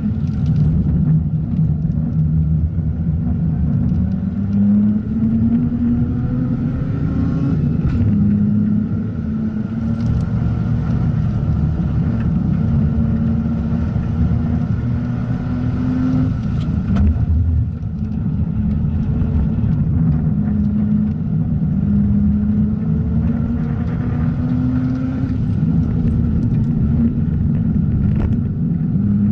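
Mazda RX-8's two-rotor Renesis rotary engine being driven hard on a race track: the engine note climbs with the revs and drops back several times, as with gear changes and lifting off between corners.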